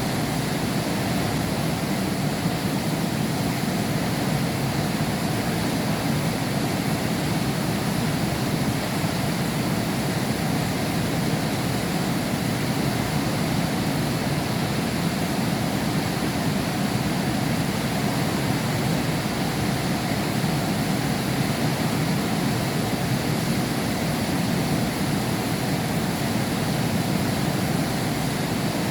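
Heavy rain falling steadily, an even, dense rush of noise with no breaks and no thunder.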